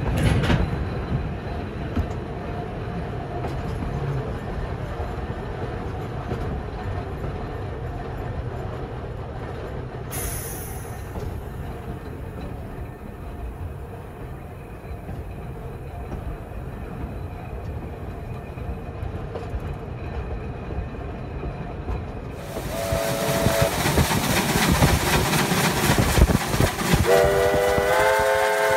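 Rumble and clatter of trains on the track at a crossing loop, loudest in the first second. A diesel railcar and trailer stand on or move along the adjacent track. About 22 seconds in, the sound changes abruptly to a working steam locomotive: steam hiss with rapid exhaust beats. Near the end its multi-note chime steam whistle sounds, held steady.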